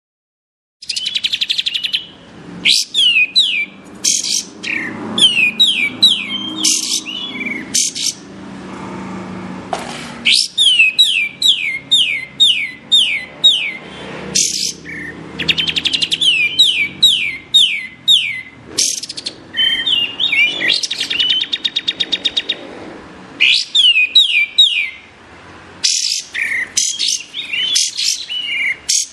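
Kapas tembak bulbul singing: bursts of rapid, short, steeply falling whistled notes, one after another, starting about a second in after a moment of silence. A faint low background haze sits under the song.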